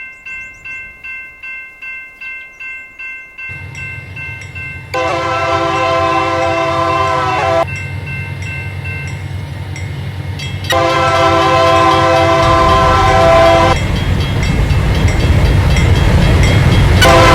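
Locomotive air horn sounding two long chord blasts over a rapidly ringing bell, as the train's engine rumble builds and grows loud while it comes past.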